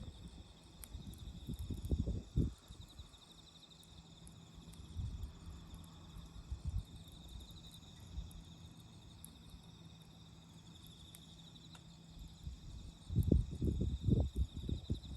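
Crickets trilling steadily in a high, pulsing chorus. Low rustling and thumps come in the first couple of seconds and again, louder, near the end, with a few faint crackles in between.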